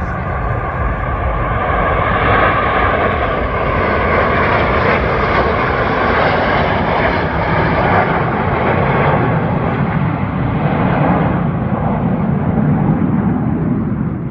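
Snowbirds' CT-114 Tutor jets passing overhead: a loud jet roar that builds over the first couple of seconds, holds, then turns to a deeper rumble and eases off near the end.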